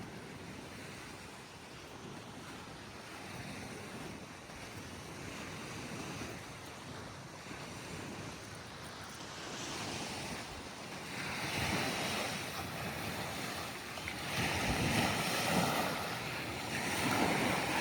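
Ocean surf washing onto the beach in swelling surges that grow louder through the second half, with wind on the microphone.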